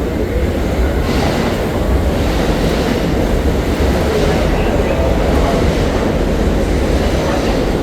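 New York City subway train running through the station: a steady, loud rumble that gets a little louder about a second in.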